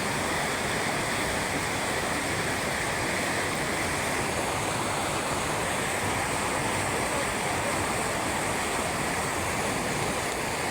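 Rushing water, a steady unbroken rush with no change in level.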